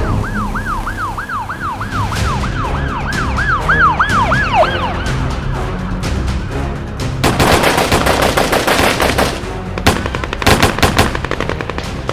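Police siren effect in a fast yelp, its pitch rising and falling about three times a second, then stopping about five seconds in. About seven seconds in a rapid burst of gunfire runs for about two seconds, and more shots come near the end.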